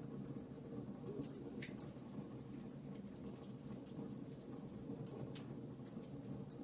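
Wood fire burning in a fireplace: a low steady rumble with frequent small, irregular crackles and pops.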